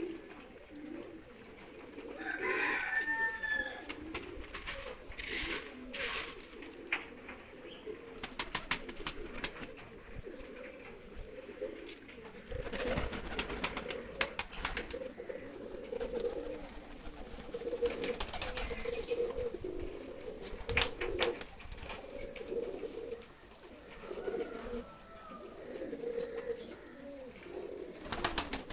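Pigeons cooing over and over in low, warbling calls, with scattered sharp clicks and a couple of higher calls.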